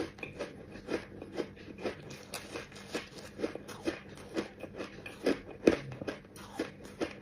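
Close-up chewing of crunchy shaved ice: a steady run of sharp crunches, about two a second, with one louder crunch near the end.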